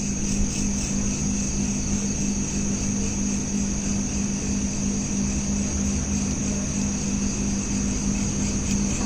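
Crickets chirping steadily over a constant low hum.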